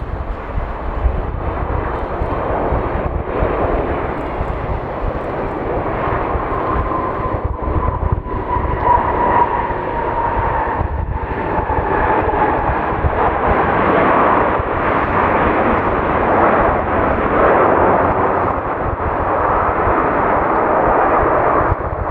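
Jet airliner passing close, its engine noise building to a loud rush, with a whining tone that slides slightly down in pitch partway through. Wind buffets the microphone underneath.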